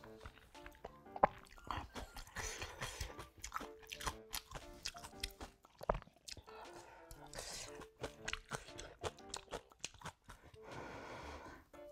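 A person chewing and crunching food up close, with soft background music playing a light, simple melody.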